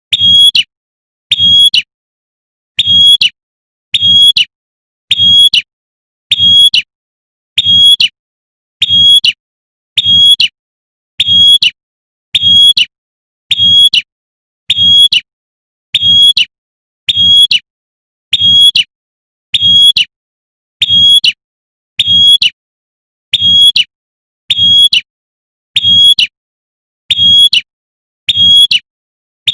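Female prinia (prenjak) giving its sharp 'tembakan' call, used to lure a male: one short, high note repeated evenly about every 1.2 seconds.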